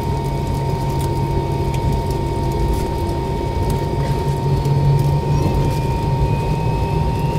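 Cabin sound of a McDonnell Douglas MD-90 on the ground, its rear-mounted IAE V2500 turbofans idling: a steady low rumble with a constant high whine.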